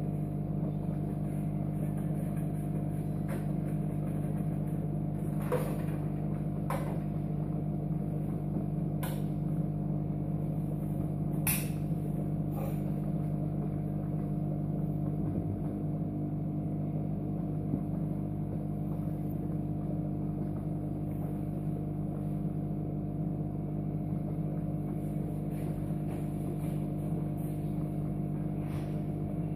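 Steady electric hum with several fixed tones, and a few faint clicks between about five and twelve seconds in.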